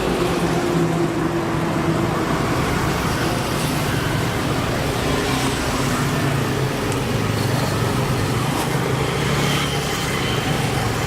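Refrigeration vacuum pump running steadily with a low hum, evacuating a mini refrigerator's sealed refrigerant system.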